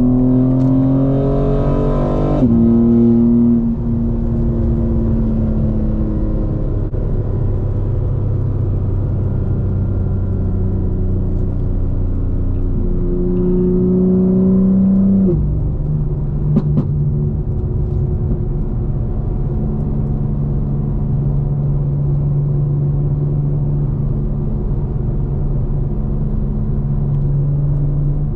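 Straight-piped BMW M4 Competition's twin-turbo inline-six pulling up through a gear with rising pitch, dropping suddenly on an upshift about two and a half seconds in, then cruising. It rises again and upshifts once more about fifteen seconds in, then drones steadily at cruise.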